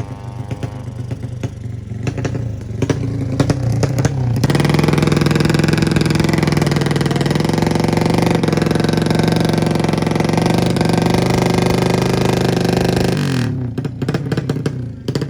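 Two-stroke 200cc underbone drag-racing motorcycle: revving up, then running flat out for about nine seconds with small pitch steps at the gear changes, before cutting off suddenly near the end.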